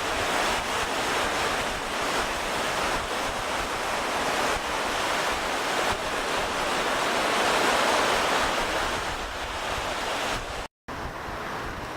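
Steady rushing surf with wind buffeting the microphone. The sound cuts out for a moment near the end and comes back quieter.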